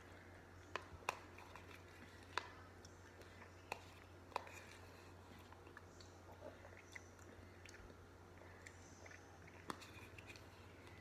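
Faint chewing and mouth sounds of a person eating soft macaroni and cheese, with a few sharp clicks scattered through, the loudest about a second in, over a steady low hum.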